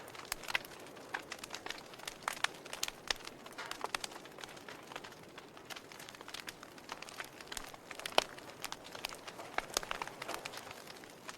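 Wood fire in a fireplace crackling, with irregular sharp pops and snaps over a soft steady hiss; one louder pop about eight seconds in.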